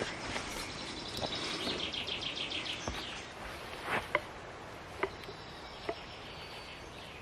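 A small bird singing a rapid high trill, followed by a few sharp clicks or snaps about four to six seconds in.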